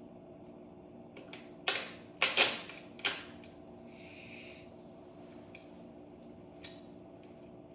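A few sharp clicks and knocks clustered about two seconds in, then a brief hiss, over a steady low hum.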